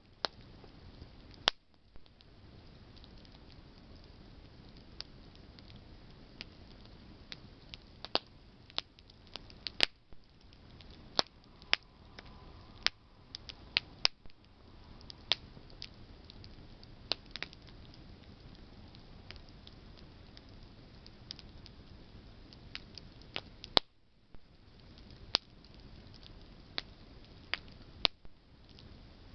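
Campfire of burning branches crackling: irregular sharp pops and snaps over a steady low hiss, with a few louder pops about a second and a half in, around ten seconds in and near twenty-four seconds.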